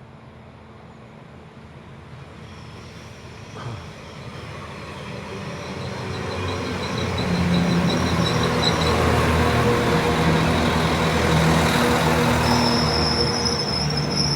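Northern class 195 diesel multiple unit approaching the platform. Its engine grows steadily louder over about eight seconds and then holds, with high whining tones joining in during the second half.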